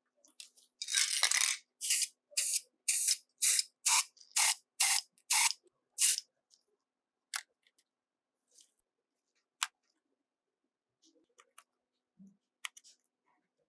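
Pressurised spray hissing: one longer burst, then about nine short bursts roughly two a second, followed by a few scattered light clicks.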